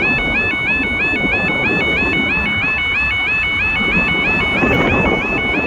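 Level crossing warning alarm sounding continuously: a two-tone electronic warble, repeating about four times a second, over a low rumble of wind or traffic.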